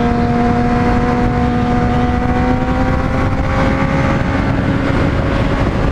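Honda CBR600RR sport bike's inline-four engine running steadily under way, its pitch rising slowly as the bike gains speed, with wind noise on the microphone.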